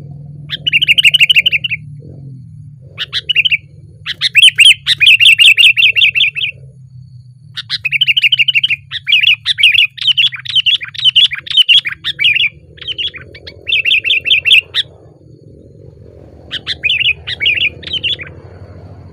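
Sooty-headed bulbul (kutilang) calling loudly in bursts of fast, chattering notes. There are about six phrases separated by short pauses, with the longest, a run of about five seconds, near the middle.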